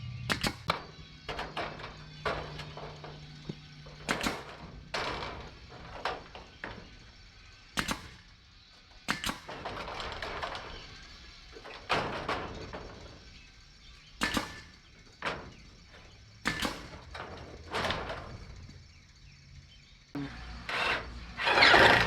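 Irregular knocks, taps and clatters of hand work on a gutter and fascia repair, about one every second, some followed by short scraping. Louder noisy bursts come in near the end.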